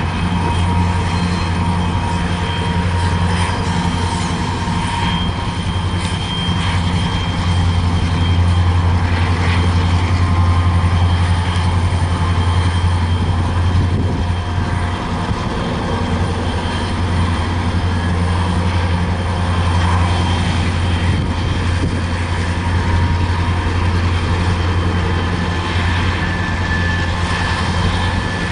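Train passing: a steady, loud, deep rumble with faint thin high-pitched tones above it.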